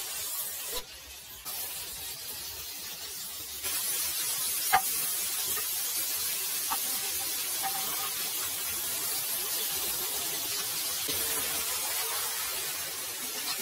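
Chicken pieces and chopped tomatoes frying in hot oil in a large cauldron, a steady sizzling hiss that gets louder a few seconds in. A single sharp clink, likely the stirring spoon against the pot, comes about five seconds in.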